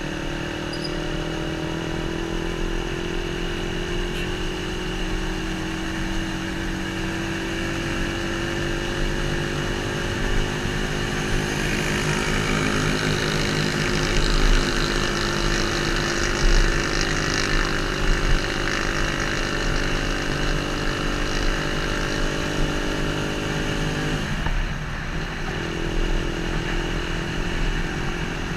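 Motorcycle engine running under way, picked up by a GoPro Hero 3+'s internal microphone along with wind and road noise; the engine note climbs slowly and drops suddenly near the end, and the wind hiss swells in the middle.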